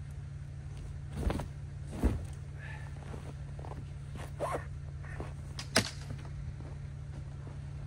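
A few scattered knocks and thumps from belongings being handled and moved about, over a steady low hum.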